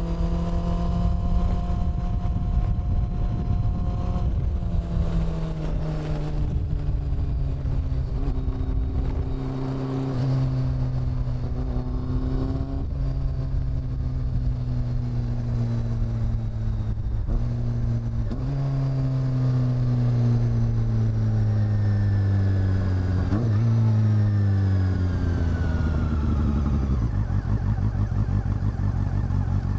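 Honda CB400 Super Four's inline-four engine and exhaust under way, its pitch holding and then sinking in several steps through gear changes, mostly falling.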